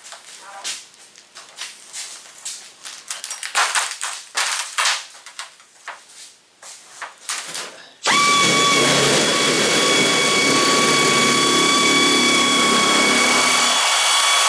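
Irregular knocks and clatter of sheet metal being handled. About eight seconds in, a handheld power tool starts abruptly and runs at a steady, loud whine, working the sheet-metal roof panel to size.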